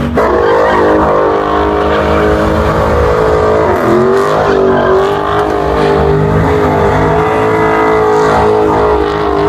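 Dodge Charger engine held at high revs through a burnout, its pitch wavering and dipping about four seconds in before holding steady, over spinning, squealing tyres.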